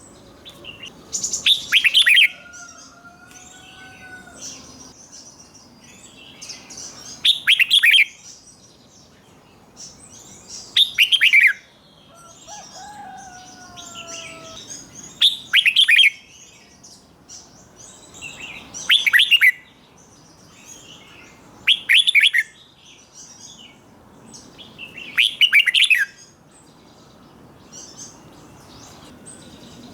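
Red-whiskered bulbul singing its doubled song phrases, a loud burst of quick falling notes every three to four seconds, with softer chirps in between.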